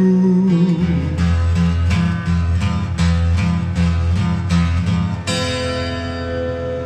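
The end of a live song on guitar. A sung note is held briefly at the start, then comes rhythmic strumming over a steady bass line, and a final chord a little past five seconds in rings out.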